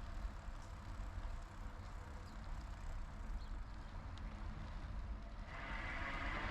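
Wind and rolling noise from a moving bicycle: a steady low rumble, joined about five and a half seconds in by a louder, higher hiss that stays.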